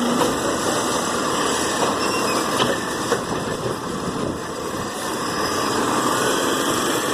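Garbage truck engine running steadily.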